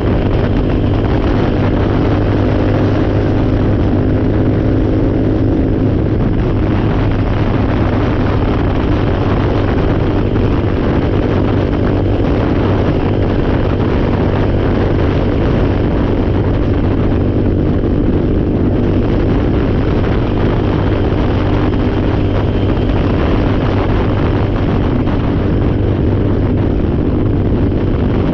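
A four-wheeler (ATV) engine running steadily at one constant speed.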